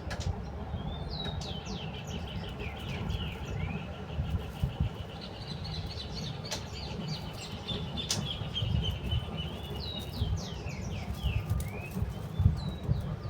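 Small songbirds chirping, with quick high downward-sweeping notes and a long rapid trill through the first half, over a steady low rumble and a few sharp clicks.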